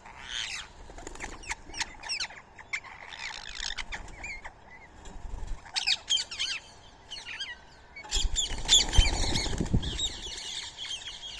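Birds at a feeding spot calling in many short, sharp chirps and squawks. About eight seconds in, a louder rushing noise lasts a couple of seconds, with the calls thickest at the same time.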